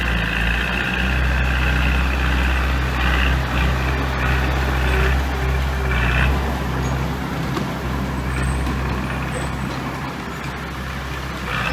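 Heavy diesel engine of earth-moving equipment running steadily, with a higher layer of noise over it that fades out about six seconds in.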